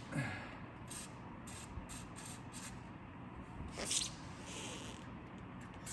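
WD-40 aerosol can spraying in short hissing bursts, the strongest about four seconds in, with light clicks of handling in between.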